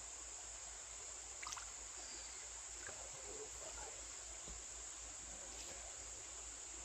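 Steady high-pitched chorus of crickets over the faint rush of a flowing creek, with a few faint light sounds about a second and a half in and again around three seconds.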